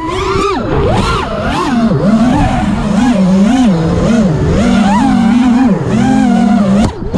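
FPV racing quadcopter motors whining, the pitch swooping up and down quickly and repeatedly as the throttle is worked.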